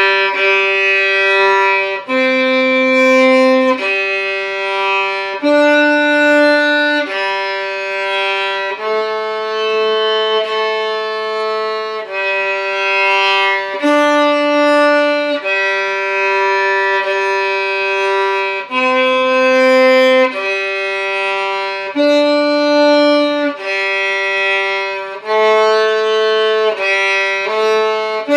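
Solo violin playing a slow, simple melody of held notes, each lasting about one to two seconds, with no accompaniment.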